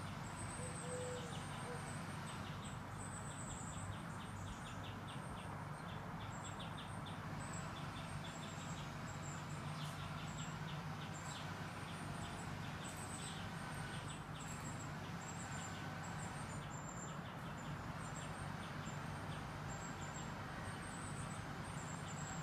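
Small garden birds chirping, with many short high-pitched chirps and quick runs of repeated notes, over a steady low background hum.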